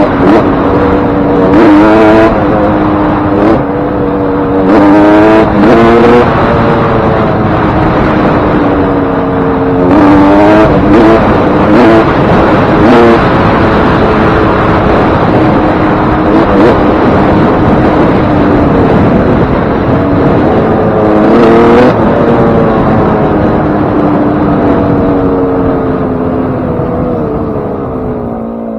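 Suzuki RM125 two-stroke single-cylinder motocross engine under riding load, freshly rebuilt with a new piston ring and wrist pin. It revs up and drops back again and again as it is shifted, with steadier held-throttle stretches in between, then grows quieter near the end.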